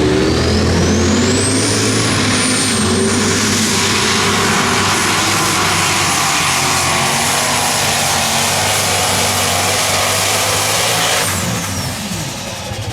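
Unlimited super stock pulling tractor's turbocharged diesel engine at full throttle, with a high turbo whine that climbs over the first two seconds and then holds steady. About eleven seconds in, the engine backs off and the whine falls away.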